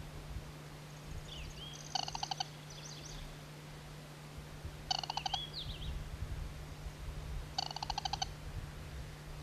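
Band-bellied crake calling: three short, rapid trills a little under three seconds apart. Another bird's thin, sliding whistles sound alongside.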